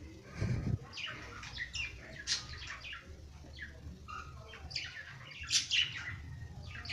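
Small birds giving short, scattered high chirps, with a low thud about half a second in.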